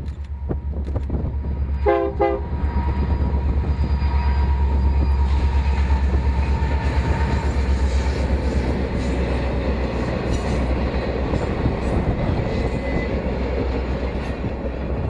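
A train horn sounds two short blasts about two seconds in, over the heavy, steady rumble of a passing train, with wheel clicks on the rails. The rumble stays loud and drops away just as it ends.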